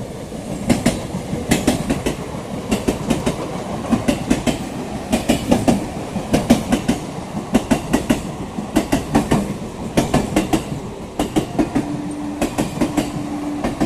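Electric multiple-unit local train running through the station without stopping, its wheels clattering in quick clusters over the rail joints over a steady rumble. A steady hum joins near the end.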